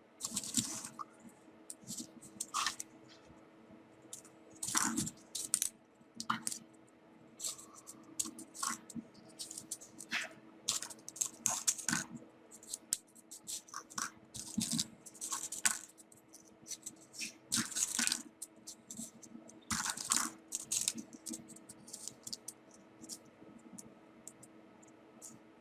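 Small folded paper 3D-origami pieces handled and slotted together: irregular rustles, crinkles and light clicks of paper, a few every second.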